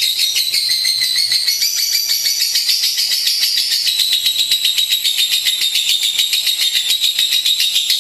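Lovebird singing a continuous, rapid, high-pitched chattering trill of about eight to ten sharp notes a second, with no break.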